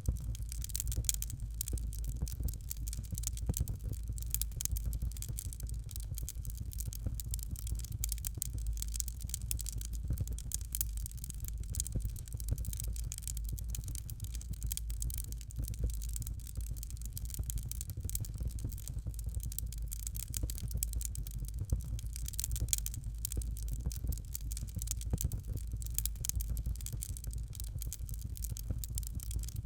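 Fireplace fire crackling: dense, irregular small pops and crackles over a steady low rumble.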